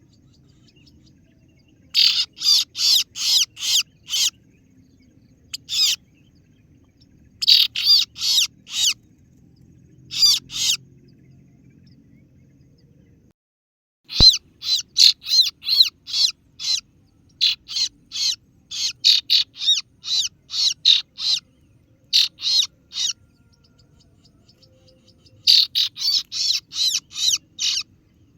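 Recorded lure call of a kaso-kaso (singo barong) bird: sharp, high 'ciet ciet' notes, about three to four a second, in runs of several notes with short pauses between. It is a call meant to draw in a rival bird.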